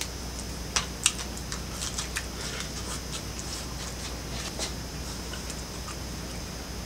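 A man chewing a mouthful of jalapeño-stuffed bread dough close to the microphone: scattered wet mouth clicks and smacks, busiest in the first few seconds.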